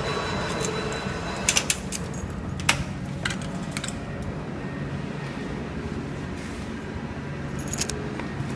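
A few sharp clicks and knocks over a steady low hum: a short cluster about a second and a half in, two single clicks soon after, and a few more near the end.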